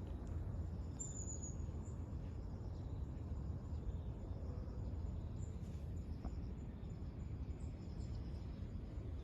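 Outdoor ambience: a steady low rumble with faint high-pitched chirps of insects or birds, one brighter chirp about a second in.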